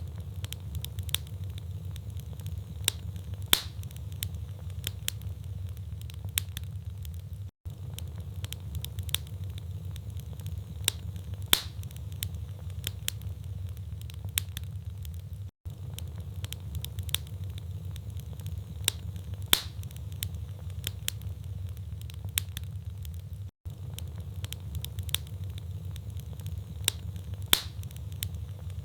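Log fire in a fireplace crackling, with sharp irregular pops and snaps over a steady low rumble of the flames. The same stretch of crackling repeats about every eight seconds, with a brief dropout at each join where the recording loops.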